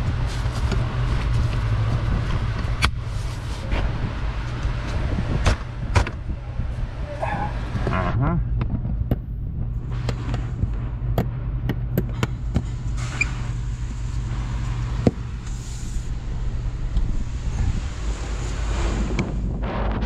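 Van engine cover (doghouse) being worked into place over the engine: scattered sharp knocks, clicks and scrapes of plastic panel and fasteners, over a steady low hum.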